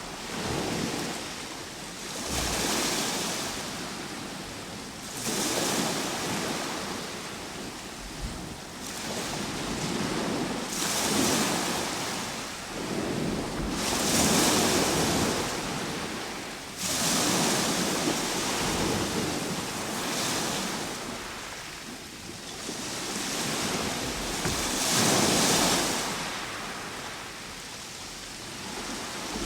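Ocean waves breaking and washing up the shore, one swell after another every few seconds, with one surge coming in abruptly a little past halfway.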